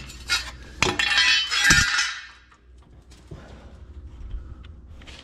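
Metal exhaust parts and hardware clinking and clanking as they are handled, with a loud rattling clatter about a second in, then quieter scattered clinks.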